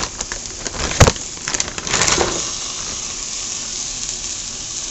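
Meatballs dropped into a stainless steel pot of sautéing onions and mushrooms: a sharp clatter about a second in and a few lighter knocks, then steady sizzling as they start to fry.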